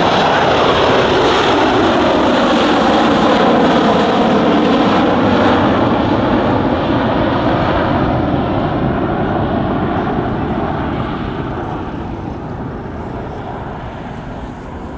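Boeing 727's three jet engines on a low display pass: a loud rushing engine noise whose pitch slides down as the airliner goes by, then slowly fades as it moves away.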